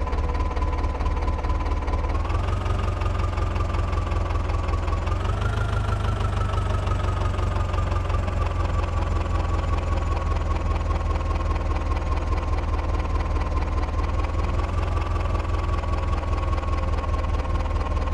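Heavy diesel engine running steadily. Its pitch steps up about two seconds in and again about five seconds in, then slowly sags.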